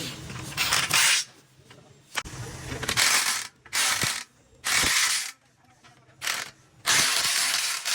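Metalworking noise: about six harsh bursts, each half a second to a second long, that start and stop abruptly, with quieter gaps between them.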